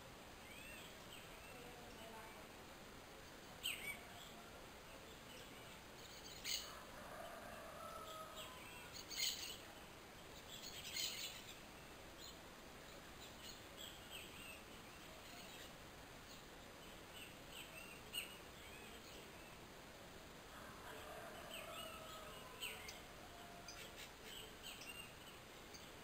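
Scattered short, sharp bird chirps over a faint steady hiss, with a cluster of louder calls a few seconds in and more near the end.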